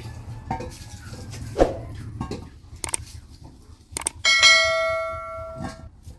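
A metal kitchen vessel is struck once about four seconds in and rings with a bell-like tone for about a second and a half before being cut off. Light knocks and clinks of handled kitchenware come before it.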